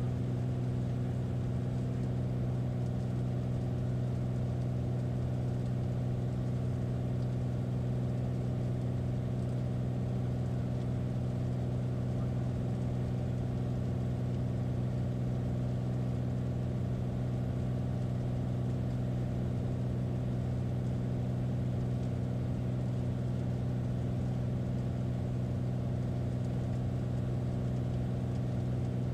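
Light airplane's piston engine and propeller droning steadily, a constant low hum that never changes in pitch or level.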